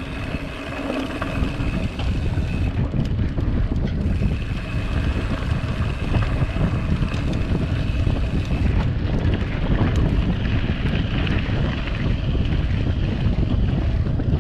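Wind buffeting the microphone of a mountain biker's camera while riding, a loud steady low rumble over the noise of the bike on a dirt road.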